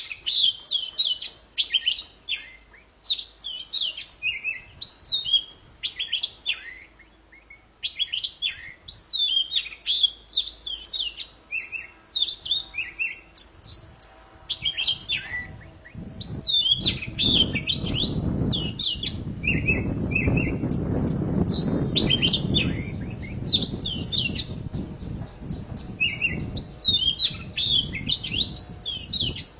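Kacer poci (Oriental magpie-robin) singing prolifically: a steady stream of varied high chirps, trills and whistled phrases with short pauses. From about halfway through, a low rushing noise runs underneath the song for several seconds.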